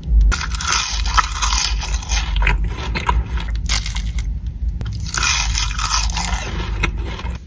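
Close-miked biting and chewing of crunchy food, with wet crunches. There are two busy stretches, one at the start and one about five seconds in, with a quieter spell between them.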